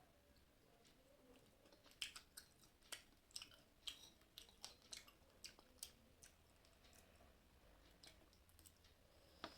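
Someone chewing a mouthful of food close to the microphone: a run of soft, sharp clicking crunches, about two a second, starting about two seconds in and fading after a few seconds, with one more near the end.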